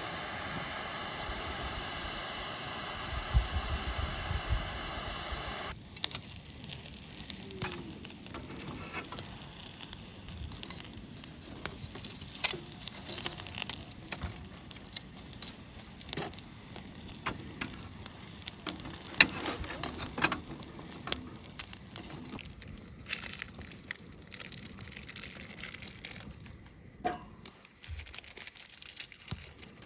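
A steady hiss for about the first six seconds, then irregular sharp cracks and snaps of wood, like a wood fire crackling or kindling being broken.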